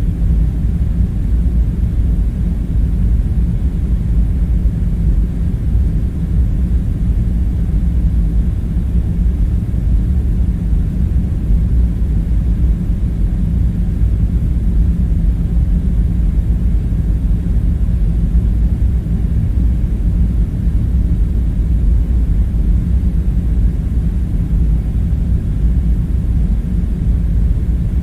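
A steady, unchanging low rumble with a faint hum in it and no separate events: the bunker's background drone.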